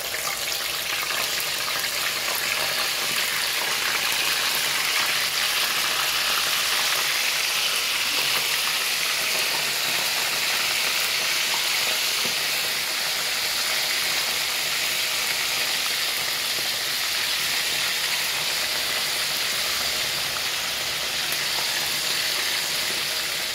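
Seasoned dove breast pieces sizzling as they fry in hot oil in a pan: a steady frying hiss.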